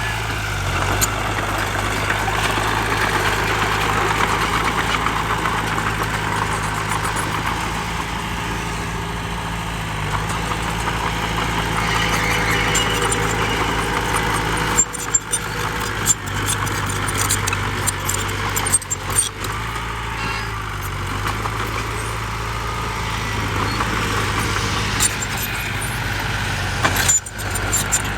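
Heavy diesel engine of a bulldozer or dump truck running steadily at a worksite, with scattered clanks and knocks in the second half.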